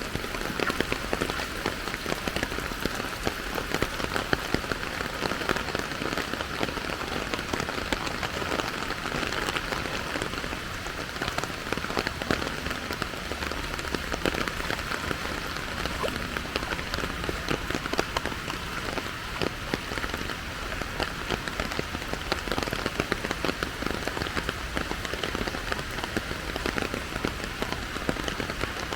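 Steady rain, with a dense patter of drops close by.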